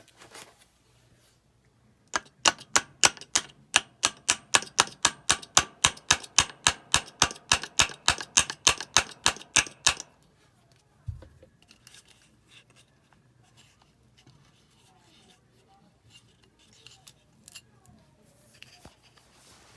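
Rapid run of sharp taps, about five a second for some eight seconds, as a replacement washing machine part is tapped down to seat it; the part does not want to go in. A single thump follows about a second later.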